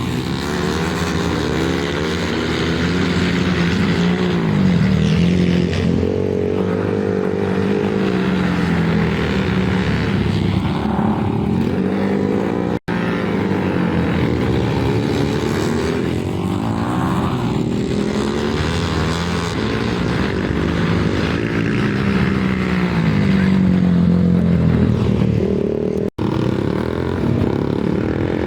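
Flat-track racing motorcycles running on a dirt oval, their engines revving up and dropping off again and again as they go around the track. The sound cuts out for an instant twice.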